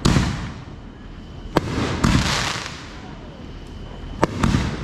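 Fireworks going off: sharp bangs at the start, about one and a half seconds in and near the end, each followed by a hissing crackle and a low rumble.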